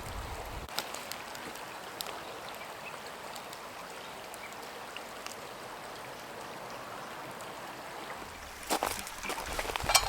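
Steady rush of flowing water with a few faint clicks, then a cluster of louder clicks and knocks near the end.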